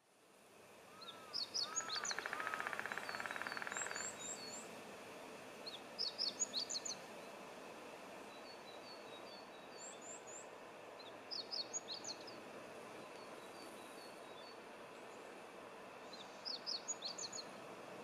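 A songbird sings a short burst of high notes about every five seconds, with other thin chirps between, over a steady hiss of outdoor background noise. A rapid buzzing trill runs through the first few seconds, and the sound fades in from silence at the start.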